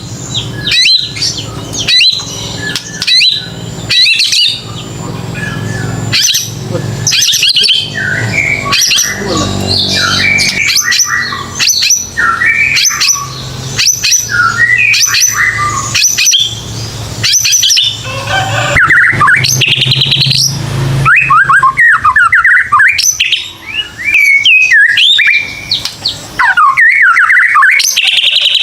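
White-rumped shama (murai batu) singing loudly: a fast, varied run of sharp chirps and whistled sweeping notes. A low hum lies underneath and stops about three-quarters of the way in.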